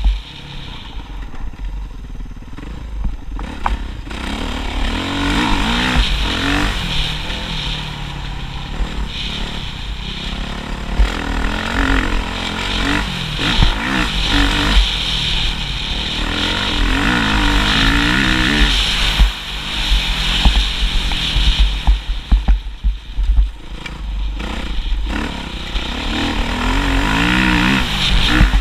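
Motocross motorcycle engine being ridden hard, its pitch rising and falling again and again as it revs through acceleration and shifts, with scattered knocks and clatter.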